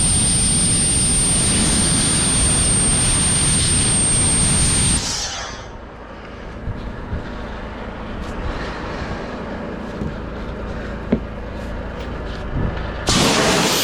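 Powerful air blower for blowing down trucks, running with a loud rushing roar and a high steady whine. About five seconds in it cuts off sharply, leaving a quieter low rumble with a few clicks, and the roar starts again suddenly near the end.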